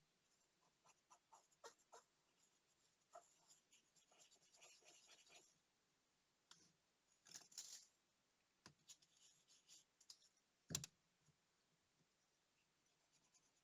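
Faint clicks and scratching of small tools working on the parts of a digital wristwatch being taken apart and cleaned, with short rubbing stretches and one sharper click about eleven seconds in.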